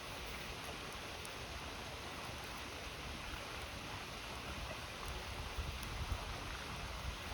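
River water flowing steadily, with a few faint crackles from a wood campfire.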